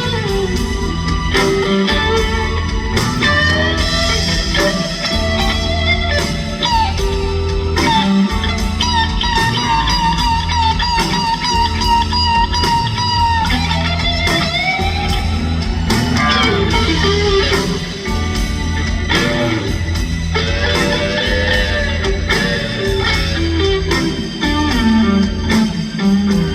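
Live rock band playing an instrumental passage: a lead electric guitar plays long sustained notes with slow bends up and down, over bass and steady drums.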